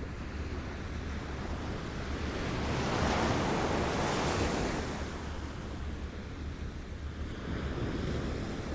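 Small waves lapping on a shore: a steady wash of water that swells as one wave comes in about three seconds in and eases off, with another smaller one near the end, over a low rumble of wind on the microphone.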